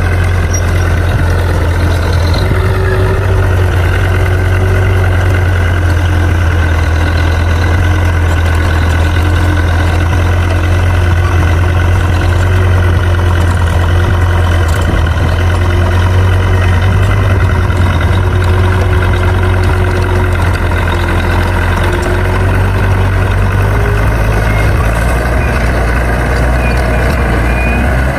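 Crawler bulldozer's diesel engine running steadily with a deep, even hum.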